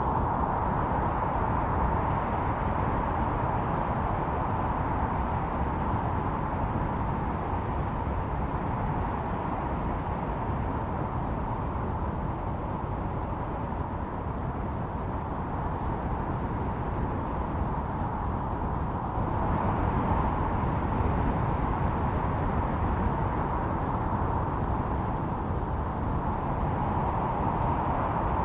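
Blizzard wind blowing steadily with a howling note, swelling a little about two-thirds of the way through.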